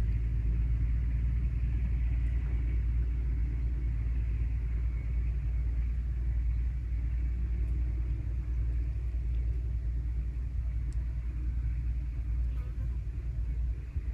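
Steady low rumble of wind buffeting the microphone, its loudness wavering constantly, over a faint high hiss.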